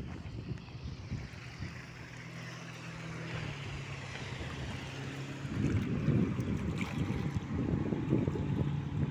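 River cruise ship passing at speed: a steady low engine hum that drops in pitch about a third of the way in, over a rush of water from its wake. From about halfway, irregular low gusty rumbling joins in.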